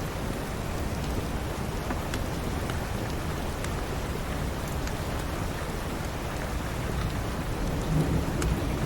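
Steady rain with a few sharp, scattered crackles from a fireplace. A low rumble of thunder swells near the end.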